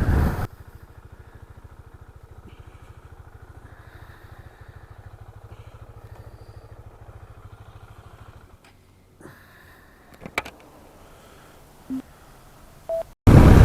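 KTM 690 Duke's single-cylinder engine idling quietly with a steady low pulse. About eight and a half seconds in the pulse changes, and a few short clicks follow.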